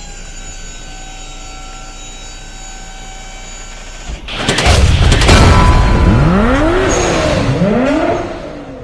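Steady held tones, then a sudden loud boom about four seconds in. An engine follows, revving up and down several times before fading away.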